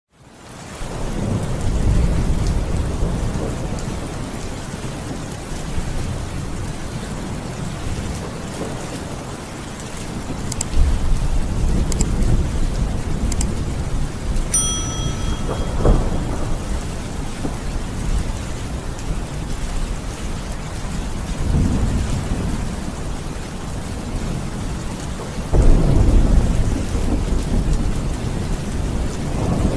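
Steady heavy rain falling, with low rumbles swelling up several times. A short high tone sounds for about a second roughly halfway through.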